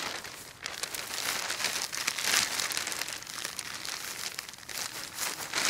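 Plastic trash bag crinkling and rustling as it is worked up over a leg and a Croc is pulled on over it, a run of irregular crackles.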